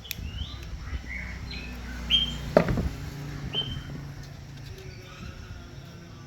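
Birds chirping in short calls over a low hum, with one sharp knock about two and a half seconds in.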